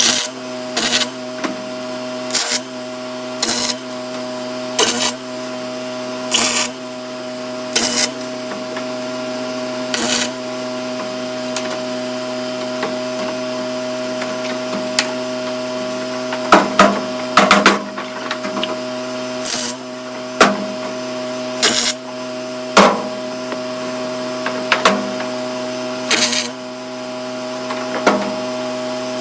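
Welder tack-welding 1/8-inch aluminum sheet: about twenty short arc bursts at irregular intervals, several close together near the middle, over a steady electrical hum.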